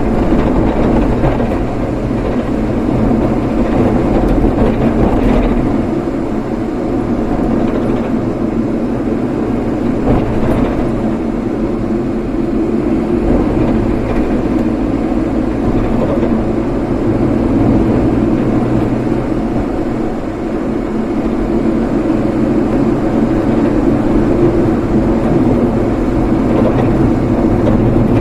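Steady engine and road noise from a vehicle driving along.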